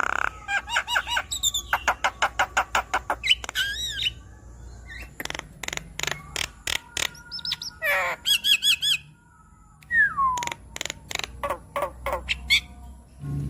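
Javan myna singing a varied, chattering song: fast runs of sharp clicking notes and harsh squawks mixed with whistled notes, with a falling whistle about ten seconds in.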